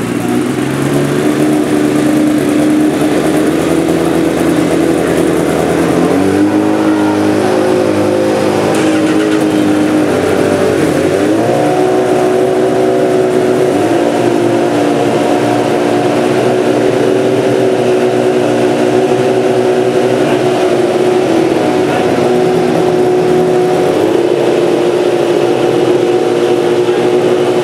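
Honda CBR1000RR Fireblade superbike's inline-four engine running on paddock stands, being warmed up with the throttle held open. Its note steps up twice to a higher steady speed in the first half, then holds there.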